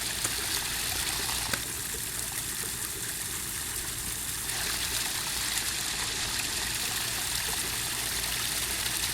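Backyard pond waterfall: water spilling steadily over rocks into the pond, driven by a 5,100 gallon-per-hour pump.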